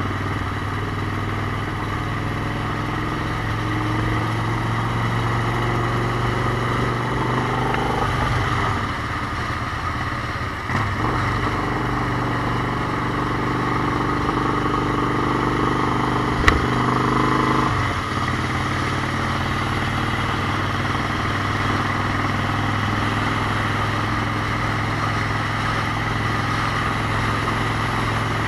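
Motorcycle engine running steadily while riding, its note changing about eight seconds in and again near eighteen seconds. A single sharp click comes a little after sixteen seconds.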